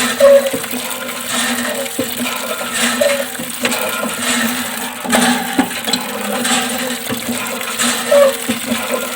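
Water running and splashing from a small DIY mini water pump, continuous, with a steady low hum beneath it.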